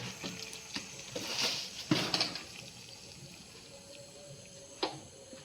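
Kitchen cooking sounds at a pan with hot mustard oil and a little sugar in it: scattered utensil clinks and a brief hiss in the first couple of seconds, then a faint steady background with one sharp click near the end.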